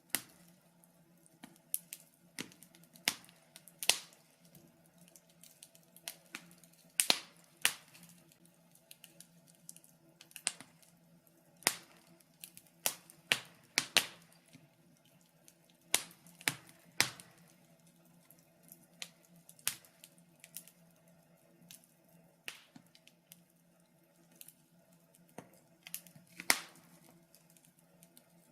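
Wood fire crackling in a fireplace: irregular sharp pops and snaps, one or two a second, over a faint low steady hum.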